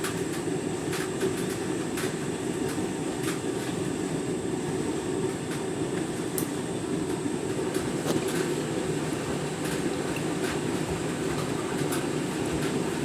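Candy washing machine running its deep rinse cycle with a half load: a steady drum and motor hum with scattered, irregular clicks and knocks.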